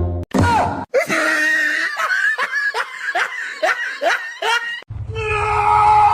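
A person laughing in a rapid run of short falling 'ha' sounds, about three or four a second, then music comes in near the end.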